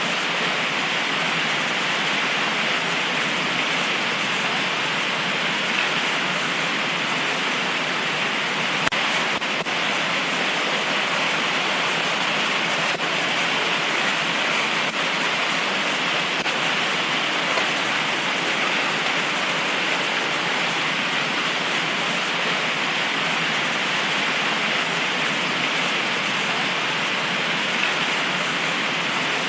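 Heavy tropical rain pouring steadily, an even hiss with a few faint ticks of drops. No thunder is heard.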